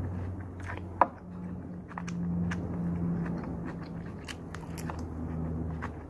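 A person chewing and biting food close to the microphone, with small clicks of a spoon and fork working in a lunch box and one sharp click about a second in.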